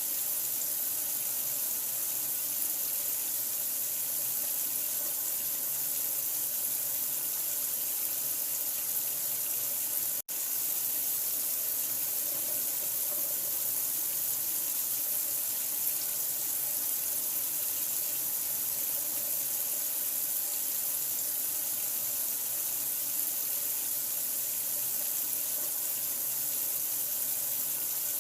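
Steady running water played as a sleep sound for a newborn: an unbroken, even hiss strongest in the high end, cutting out for an instant about ten seconds in.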